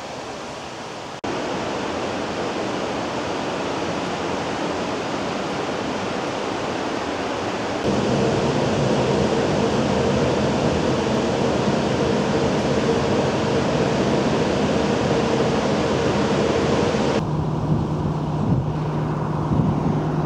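A moving tour bus: steady rushing road and wind noise with an engine hum under it. The sound jumps abruptly louder about a second in and again about eight seconds in, when the engine hum becomes plain, and changes suddenly once more near the end.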